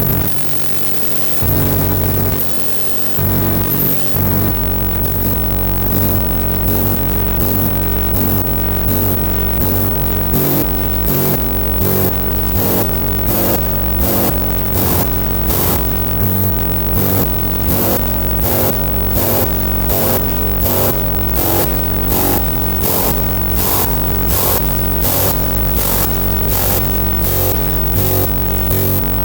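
Electronic music played on hardware synthesizers: a sustained low drone and layered synth tones, joined about four seconds in by a regular beat of short, hiss-like high percussion hits.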